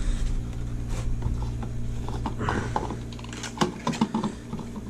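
A run of small clicks, taps and light rattles, like parts or tools being handled, over a steady low hum.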